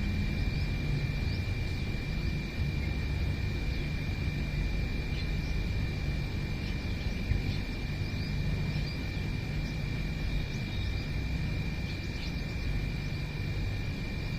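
Outdoor field recording: faint, short bird chirps scattered through, over a steady low rumble like distant traffic or wind and a constant thin high-pitched drone.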